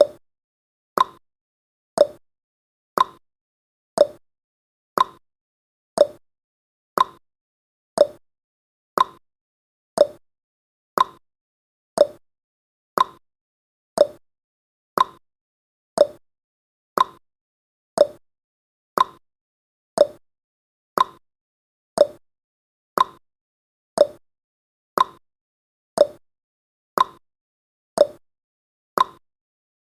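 Countdown timer's clock-tick sound effect, one short tick about every second in an even, steady rhythm, with successive ticks seeming to alternate a little in pitch like a tick-tock.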